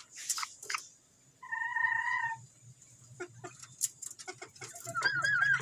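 Small pet parrots calling: one held, squawky call about a second and a half in, then a short warbling chirp near the end, with scattered sharp clicks between.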